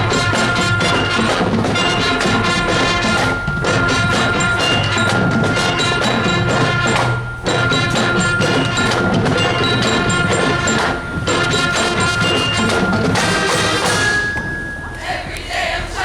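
School show band playing a tune, with rapid, evenly spaced percussion strikes under held pitched notes and short breaks every few seconds.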